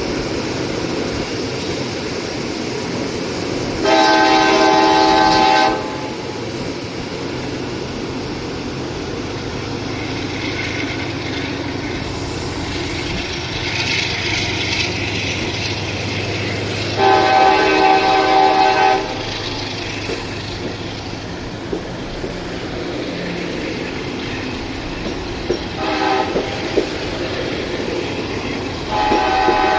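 Train horn sounding a chord in two long blasts, a short toot and another long blast, over the steady rumble of a train on the tracks with wheels clicking over the rail joints.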